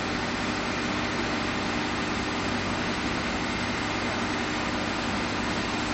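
A steady engine-like drone under a constant even hiss, unchanging throughout.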